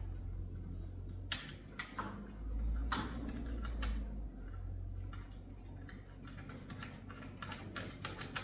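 Light metal clicks and taps of nuts and bolts being fitted by hand onto a garage door roller bracket: a few sharper clicks in the first three seconds, then a quick run of lighter ticks.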